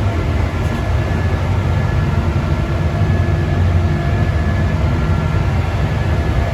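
Paint spray booth's air fans running: a steady low rumble with a faint high whine.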